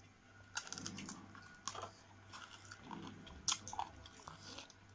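Close-miked chewing of a mouthful of curry and rice, with irregular wet smacks and clicks of the mouth. The loudest click comes about three and a half seconds in.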